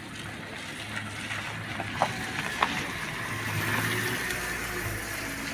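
Truck engine running steadily, its note swelling slightly past the middle, with two sharp knocks about half a second apart around two seconds in.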